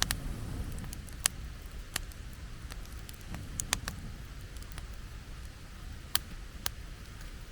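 Open wood campfire crackling: sharp pops at irregular intervals over a steady low rumble.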